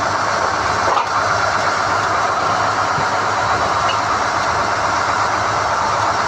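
SDH-1600 core drilling rig running steadily under load while hoisting NQ drill rods: a loud, even engine and machinery noise with a low hum. A short knock sounds about a second in.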